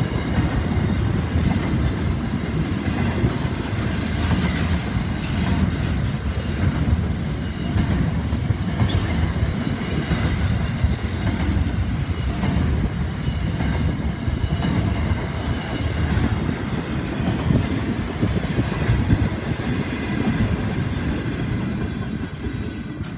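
Freight train wagons rolling past at close range: a steady rumble of steel wheels on rail, with a few short high wheel squeals. The rumble drops away right at the end as the train clears.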